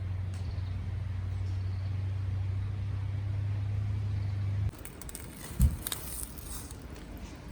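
Steady low engine hum from a motor vehicle that cuts off suddenly, then a single thump and a brief rustle.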